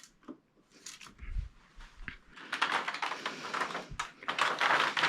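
A few soft knocks, then from about halfway a dense run of clicking, clattering and scraping as small TV parts are handled and set down.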